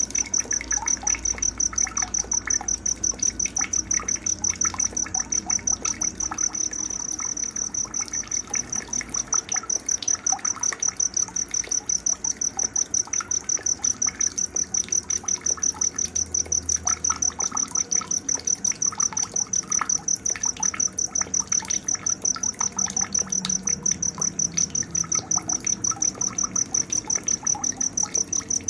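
A cricket chirping in a steady, rapid pulsing high trill, with birds calling and chirping more faintly in between. This is a night-time nature soundscape used as training audio (masteran) for songbirds.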